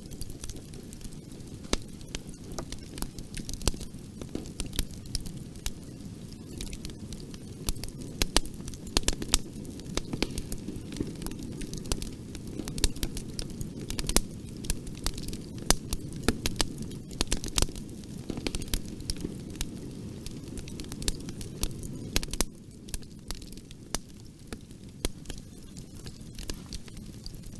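Fireplace fire crackling, with frequent irregular sharp pops and snaps over a steady low rumble of burning. The rumble drops a little near the end.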